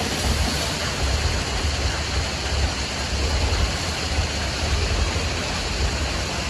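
Heavy machinery at a stone-crushing site running steadily: a continuous low rumble under a dense, even noise, with no distinct knocks.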